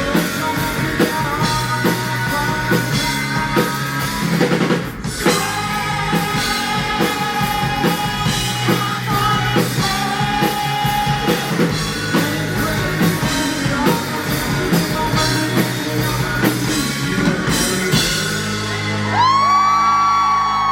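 Rock band playing live: drum kit, guitars and a singer. Near the end a long held note bends in pitch.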